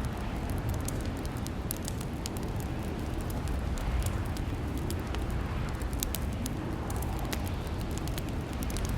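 Fireplace crackling: a steady low rumble of burning wood with irregular sharp pops and crackles scattered throughout.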